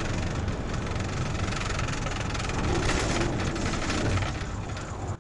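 A vehicle's engine running with heavy road noise. The sound cuts off suddenly at the end.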